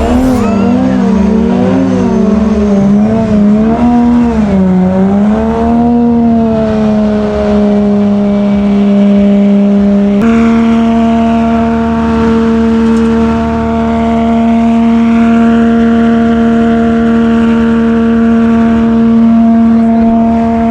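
A car engine revving hard, its pitch rising and falling with the throttle for the first several seconds, then held at a steady high rev. About halfway through the pitch steps up a little and holds again, before falling away at the very end.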